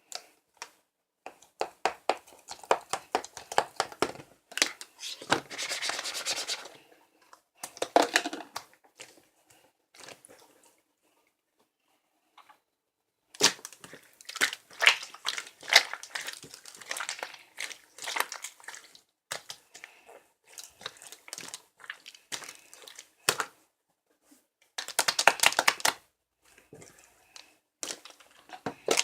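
Crinkling, crackling and tapping handling noises in irregular bursts, with two longer rustles and a few seconds of silence in the middle.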